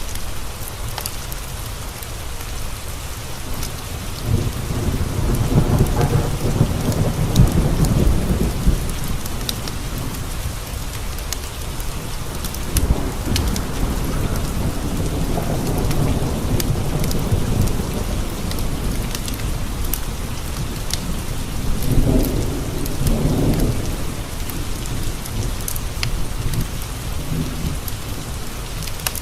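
Steady rain with two long rolls of thunder, the first rumbling in about four seconds in and lasting several seconds, the second shorter one near the end.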